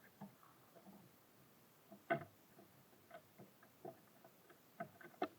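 Irregular light taps and clicks of small birds pecking and landing on a bird feeder, the sharpest about two seconds in and another near the end.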